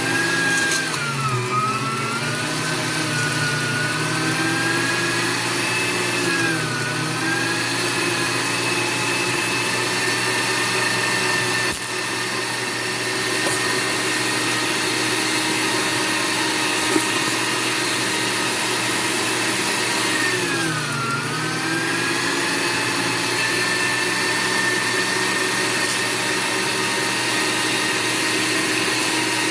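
AARTVARK TEES electric meat grinder running steadily while grinding beef, a motor hum with a whine on top; its pitch sags briefly three times, about a second in, around six seconds in and around twenty-one seconds in.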